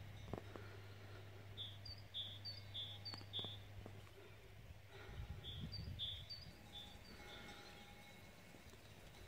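A small songbird singing faintly outdoors: a short two-note phrase repeated four or five times, then again after a pause. A steady low hum underneath stops about four seconds in.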